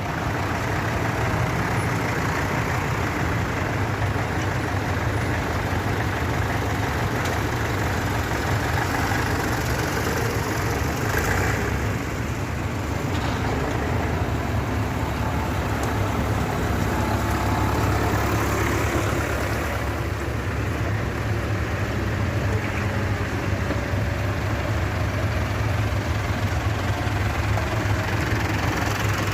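John Deere 6310 tractor's diesel engine running steadily.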